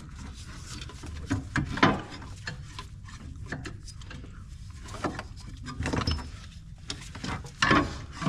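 Metal parts and tools being handled while mounting the compressor: irregular knocks, clicks and scraping, loudest about two seconds in and again near the end.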